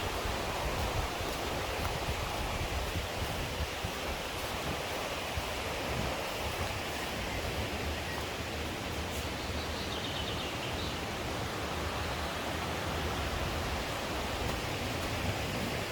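Mountain stream rushing steadily, with a short high trill about ten seconds in.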